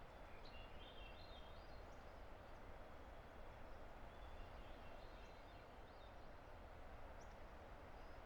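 Faint, steady rush of a distant river, with soft bird song on top: short runs of high notes about half a second in, again around four to five seconds, and a brief chirp near the end.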